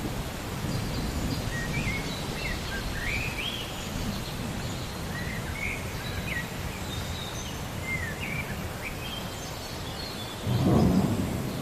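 Relaxing thunderstorm soundscape: a steady low rumble with birds chirping over it in short, quick calls. Near the end, a louder roll of thunder swells up.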